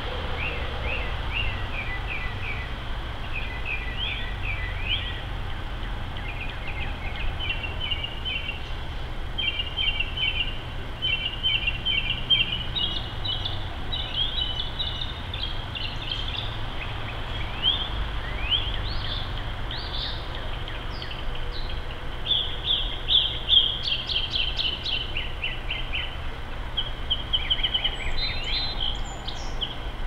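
Small songbirds chirping in runs of short, quick, high notes, with one burst after another. Under them is a steady low rumble.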